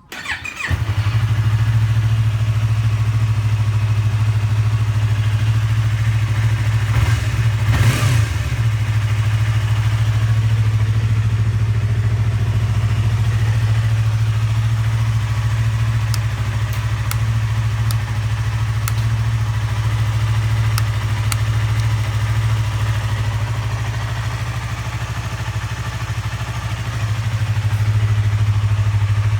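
2015 Yamaha YZF-R25's 250cc parallel-twin engine, breathing through a WR'S titanium exhaust, starts up and settles into a steady idle. About seven seconds in it gives one brief throttle blip that rises and falls.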